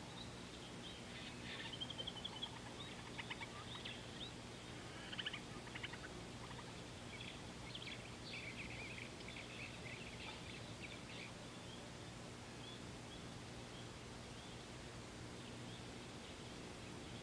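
Birds chirping and giving quick trills, busiest in the first ten seconds or so, then quieter, over a faint steady low hum.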